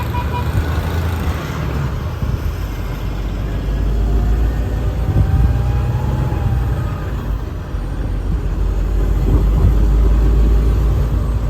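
Truck driving on a snow-covered road, heard from inside the cab: a steady low engine and tyre rumble that swells about four seconds in and again near the end.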